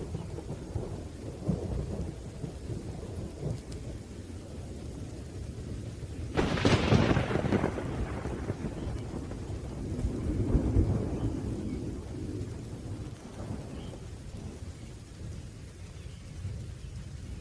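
Thunderstorm with steady rain and low rolling thunder. About six seconds in a sharp thunderclap breaks out and fades over a couple of seconds, and another rumble swells around ten seconds in.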